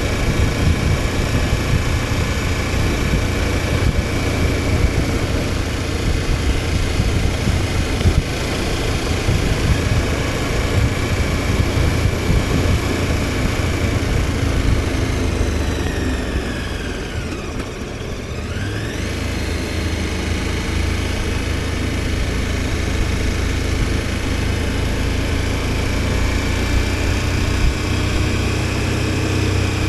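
KTM 1290 Super Adventure S's V-twin engine running steadily under way. About halfway through, the revs drop as the throttle is rolled off, then climb again as it is opened back up.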